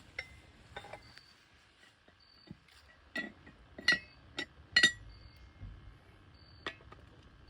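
Cast-iron Dutch oven and its lid clinking and clanking as the lid is handled and set on, about five sharp metallic knocks with a short ring, the loudest a little past the middle.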